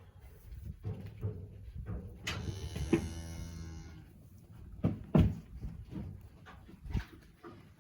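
One drawn-out bawl from cattle, lasting under two seconds, about two seconds in. Then a few sharp knocks and thumps, the loudest just after the five-second mark.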